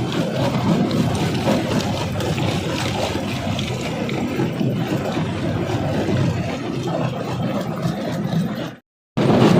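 Rock crusher machine running under load, a steady heavy mechanical rumble with irregular grinding crackle of rock. The sound cuts out completely for a moment near the end and comes back.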